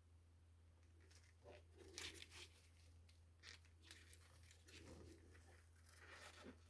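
Faint, scattered rustling and crinkling with a few light clicks from hands handling parts, over a low steady hum.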